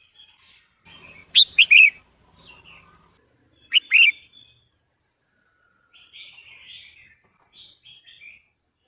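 Female red-whiskered bulbul calling: two loud bursts of quick, sharply bending whistled notes, about a second and a half in and again near four seconds, then softer scratchy chattering near the end.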